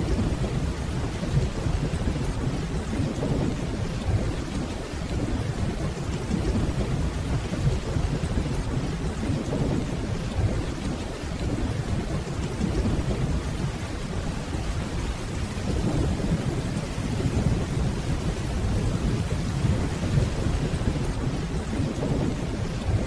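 Steady rainfall with low, distant thunder rumbling underneath, swelling and fading several times.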